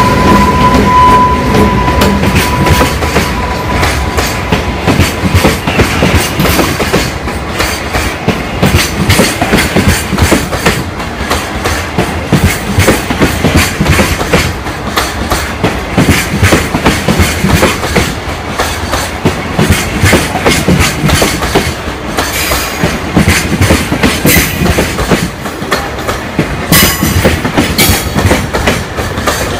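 Long freight train of container wagons rolling past, wheels clicking in a steady clickety-clack over the rail joints. In the first few seconds the passing EH500 electric locomotive adds a steady high whine that fades away.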